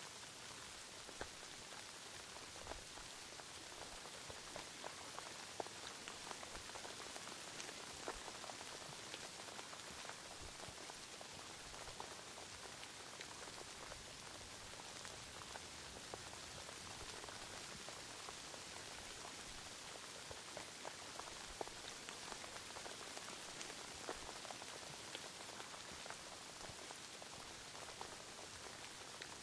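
Steady rain falling: an even hiss dotted with many small drop ticks and a few louder single drops.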